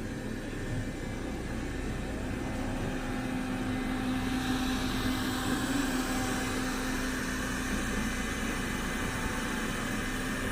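Roborock E20 robot vacuum running: a steady whir of its suction motor and brushes with a humming tone, growing a little louder about four seconds in.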